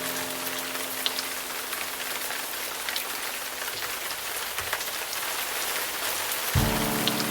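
Steady rain falling, with scattered drop ticks. A low struck musical note rings and fades over the first couple of seconds, and another is struck near the end.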